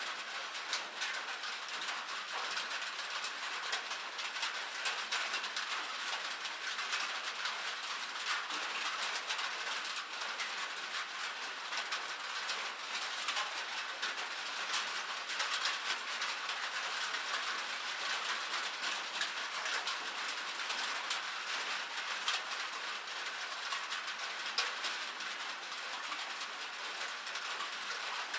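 Rain falling steadily, a dense pattering of many small drops ticking without letup.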